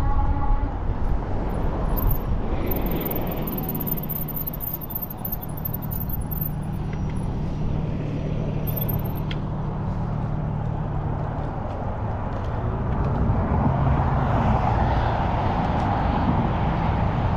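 Road traffic heard from a moving bicycle: a steady rush of road and wind noise with a vehicle's engine hum passing through, growing louder near the end. A steady horn-like tone dies away just after the start.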